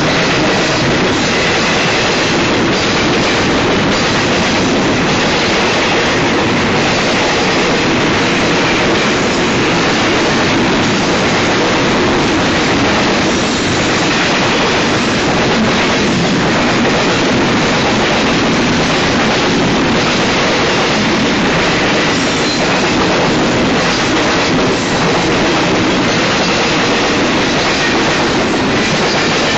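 Double-stack container cars of a BNSF freight train rolling past, a steady, loud rumble of steel wheels on rail with an even run of wheel clicks.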